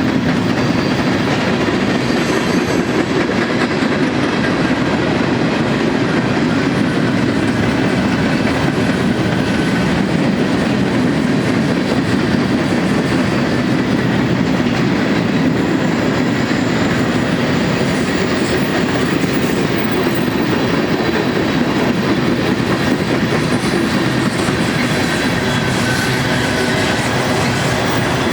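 A freight train's cars rolling past at steady speed: a loud, continuous noise of steel wheels on the rails, with a faint high whine from the wheels.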